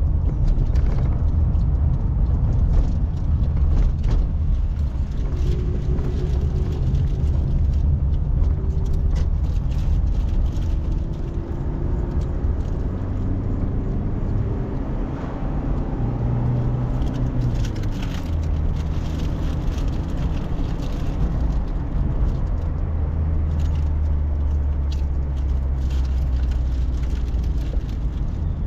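Car driving through city streets heard from inside the cabin: a steady low engine and road rumble, with small rattles and clicks from the interior.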